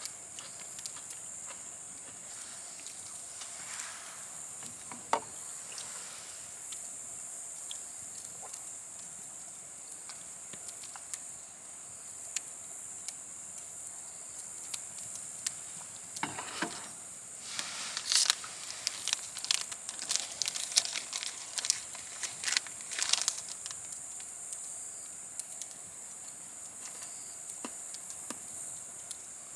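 Wood bonfire crackling, with scattered pops and a dense flurry of crackles past the middle, over a steady high hiss.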